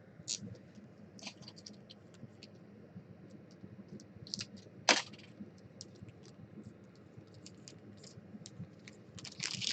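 A trading card pack being opened and its cards handled: scattered small clicks and crinkles, one sharper snap about five seconds in, and a denser burst of crinkling near the end.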